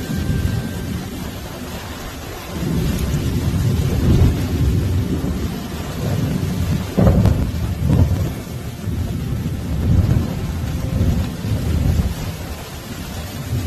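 Heavy thunderstorm: rain hissing steadily under a deep rumble that swells and fades in repeated surges, with a sudden loud jump about seven seconds in.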